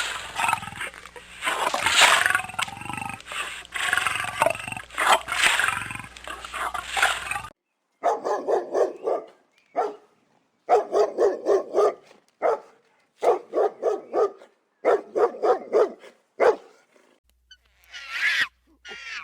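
An animal roaring and growling, rough and loud, for several seconds; after an abrupt cut, a dog barking in quick runs of short barks.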